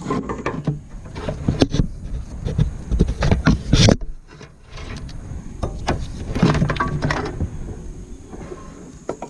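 Irregular metallic clanks, knocks and rattles of hand tools and parts being handled on an engine during disassembly, with the loudest knock just before four seconds in.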